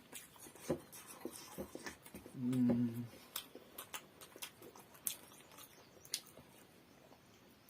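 Close-up eating sounds of someone chewing momos: scattered wet mouth clicks and smacks. About two and a half seconds in there is a short closed-mouth 'mmm' hum.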